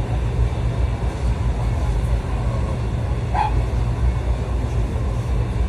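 Passenger train running, heard from inside the carriage as a steady low rumble. A brief higher-pitched sound cuts through about three and a half seconds in.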